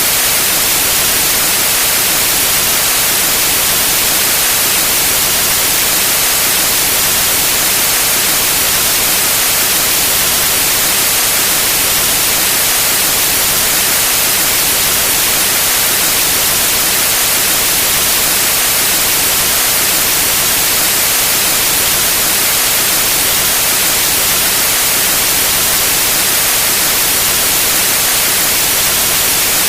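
Steady white noise: an even hiss, brightest in the high range, holding one constant level throughout.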